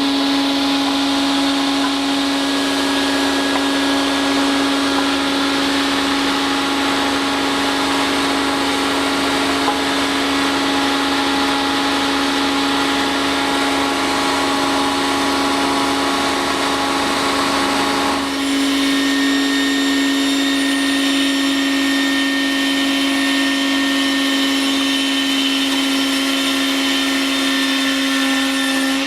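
Multi-blade rip saw with 250 mm blades running steadily with a constant whine. The sound shifts abruptly about 18 seconds in, then runs on steadily.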